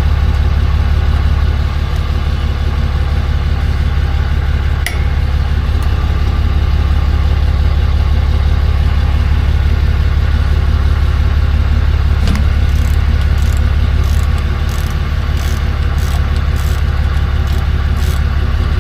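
Tow truck engine idling steadily, with a few brief clicks and knocks over it.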